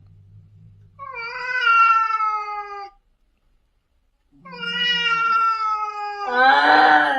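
A cat meowing: two long, drawn-out meows that fall slightly in pitch, then a louder meow near the end.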